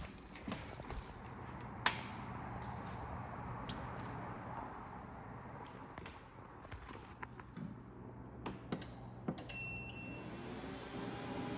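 Scattered clicks and knocks over a steady low hum, with one short electronic beep about nine and a half seconds in, after which a steady hiss comes up.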